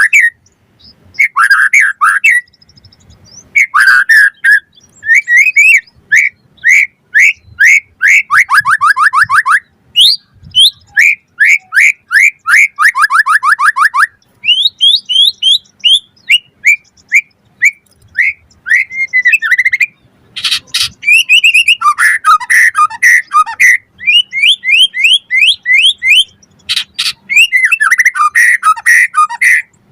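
White-rumped shama (murai batu) singing loudly: varied whistled phrases of quick rising notes and fast rattling trills, separated by short pauses, with a few harsh scratchy notes in between.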